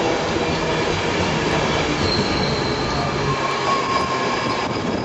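Passenger train coaches rolling past close by, a steady loud rumble of wheels on rails, with faint high squeals from the wheels partway through.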